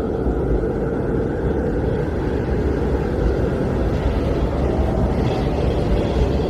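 Blizzard wind blowing steadily, a dense, deep rushing noise that barely changes.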